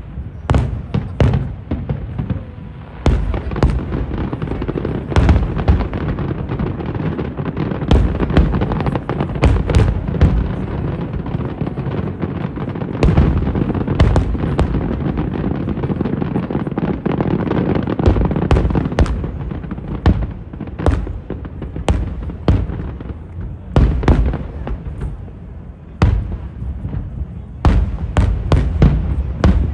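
Aerial fireworks display: a dense string of sharp bursts, some single and some in rapid clusters, over a continuous low rumble of overlapping booms.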